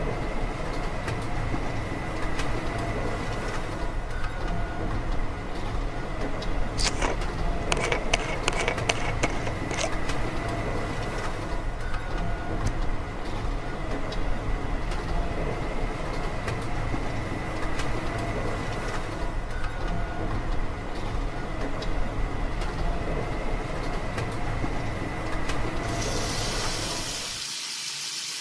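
Small electric motor driving a miniature pumpjack model, running steadily with a faint high whine. A quick run of clicks comes about seven to ten seconds in, and near the end the running noise drops out and a hiss takes over.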